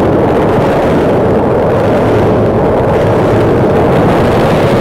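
Train crossing the railway bridge directly overhead, heard from underneath: a loud, steady rumble.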